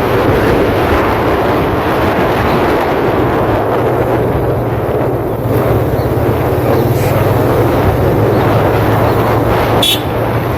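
TVS Apache RTR 180 motorcycle's single-cylinder engine running steadily while riding, under heavy wind and road noise on the microphone. A brief sharp sound cuts through near the end.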